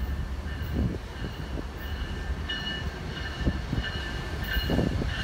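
Approaching BNSF freight train, its diesel locomotives running with a steady low rumble that builds slightly as it nears. A high tone pulses on and off over it from about halfway through.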